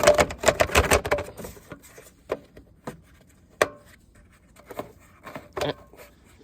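A quick clatter of knocks and clicks in the first second, then a few single knocks: parts of a riding lawn mower being handled by hand.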